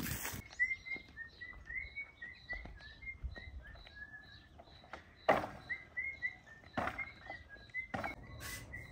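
A bird chirping over and over in short, even calls, about two or three a second. A few sharp knocks sound about five, seven and eight seconds in.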